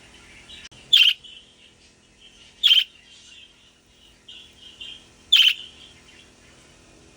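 Young budgerigar calling: three loud, sharp calls about a second in, near three seconds in and about five and a half seconds in, with soft chirping between them.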